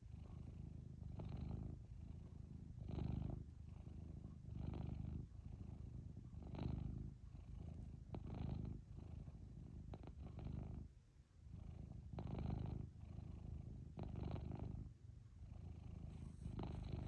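Domestic cat purring steadily: a low, continuous buzz that swells with each breath, roughly once every two seconds.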